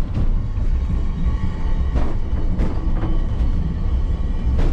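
Low rumble of the Angels Flight funicular car running down its steep cable-hauled incline, heard from inside the wooden car, with a few sharp knocks and clicks along the way.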